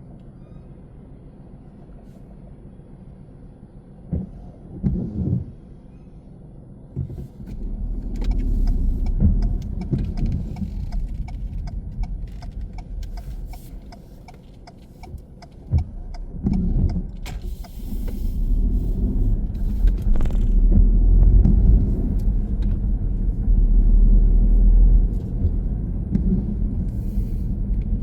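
Car on the move: a quiet, steady stretch for the first seven seconds or so, then a low engine and road rumble that builds as the car pulls away, eases off for a few seconds and builds again louder. Scattered light clicks and rattles sit over the rumble.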